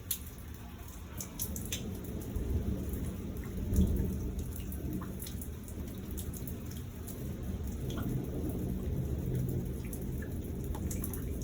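Rain falling through a thunderstorm, with thunder rumbling low and swelling loudest about four seconds in, then again later. Scattered drops tick sharply over the steady rain.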